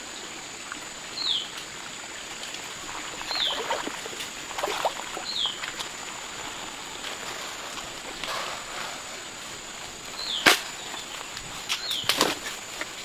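A bird repeats a short call that falls in pitch about every two seconds, over a steady high-pitched tone. Occasional scrapes and knocks are mixed in, the loudest a sharp knock about ten seconds in.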